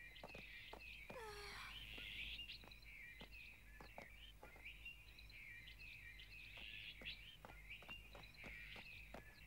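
Faint birdsong: many small birds chirping and twittering without a break, with one falling call about a second in.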